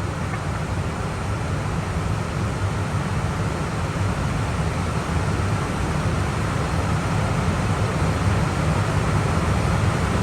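Steady rushing noise of an Airbus A320 in flight as heard on the flight deck: airflow and engine noise, heaviest in the low rumble, growing slightly louder in the second half.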